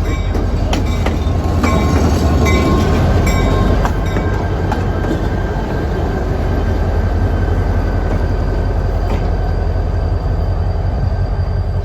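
A train moving on the rails with a steady low rumble. There are sharp clanks and clicks over the first few seconds, and a thin steady high tone through the middle.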